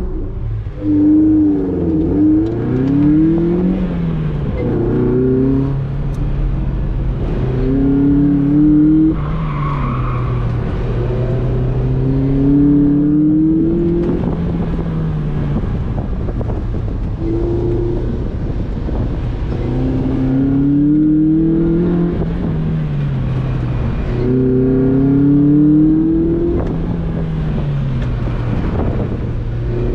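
Car engine heard from inside an open-top convertible on a cone course, revving up and easing off again every few seconds as the car accelerates between turns and slows for the next, over steady road and wind noise.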